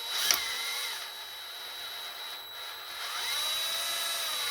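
Electric drill running with a reverse (left-hand) drill bit, drilling out a broken bolt in a cast engine block. A sharp click comes near the start, then the motor whine sags and recovers in pitch a few times as the bit loads up in the bolt.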